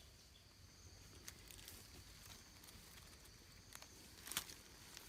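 Near silence with a few faint crackles of dry leaf litter, the loudest about four and a half seconds in.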